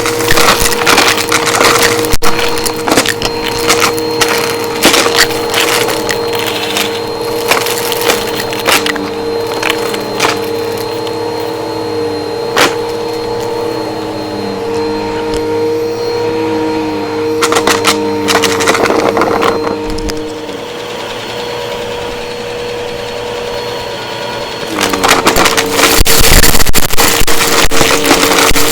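Vacuum cleaner running steadily while sucking up crunchy debris, with many sharp crackling clicks over its motor whine. The crunching gets louder near the end.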